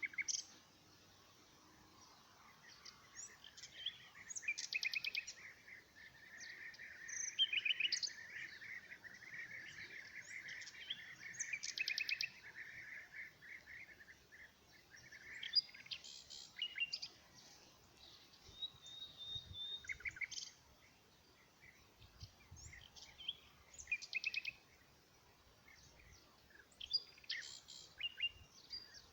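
Several wild birds singing and calling together: short chirps, quick trills and clear whistled notes, with one long unbroken stretch of song through the first half.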